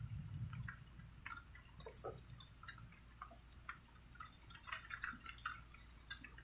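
Faint scattered raindrops and water drips falling at irregular intervals, with a soft low rumble in the first second.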